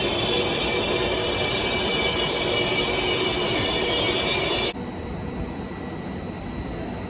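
A train running through a station with a loud, steady high squeal from the wheels over its running noise. The sound cuts off abruptly about two-thirds of the way through, and a quieter steady rumble follows.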